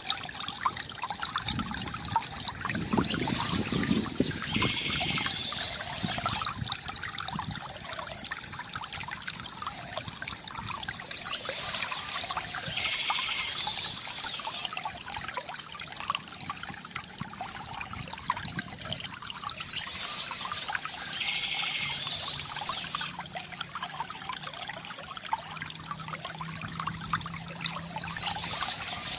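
Stream water trickling and splashing steadily, with a bird singing a short high phrase that recurs about every eight seconds, four times.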